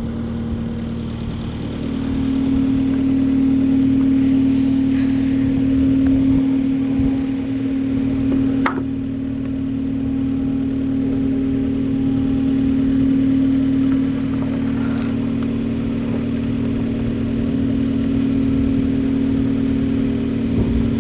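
Vehicle engine running at a steady low speed, picking up slightly about two seconds in and easing back later as it creeps forward. A single sharp click about nine seconds in.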